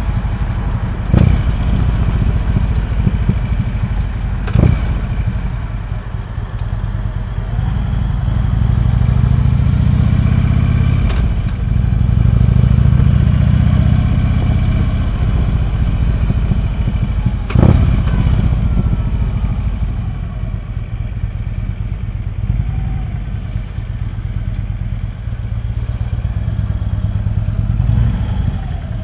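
Harley-Davidson V-twin motorcycle engine running at low street speed, growing louder for a stretch in the middle as it pulls harder. Three sharp knocks stand out over the rumble.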